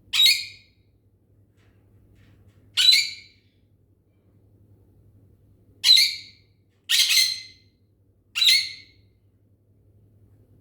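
A bird calling: five short, high-pitched calls at irregular gaps of one to three seconds.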